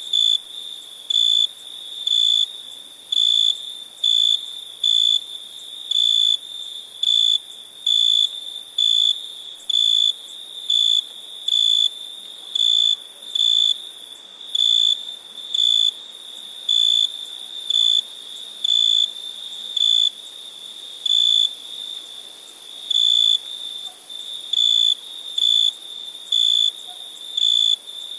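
Crickets at night: one cricket gives loud, high-pitched chirps about once a second, over a fainter, steady trill at the same pitch.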